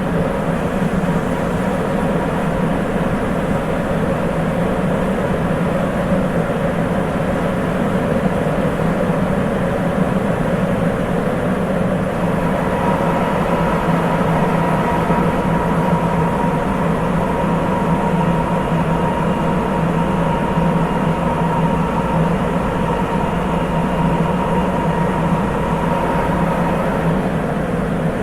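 Sapporo Municipal Subway 8000 series rubber-tyred train running at speed between stations, heard inside the car as a steady running rumble. A thin steady whine joins about twelve seconds in and holds.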